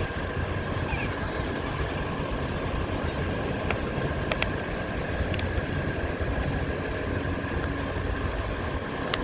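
Wind rushing over the microphone and surf, under the steady whine of a Onewheel's electric hub motor, with a few sharp crunches of shells under its tyre.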